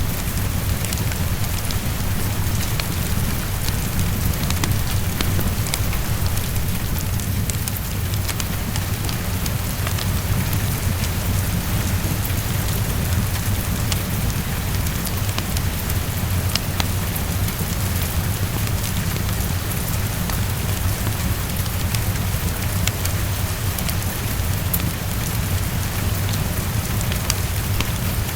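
Steady heavy rain against a window, with a deep, constant rumble underneath and scattered sharp ticks through it.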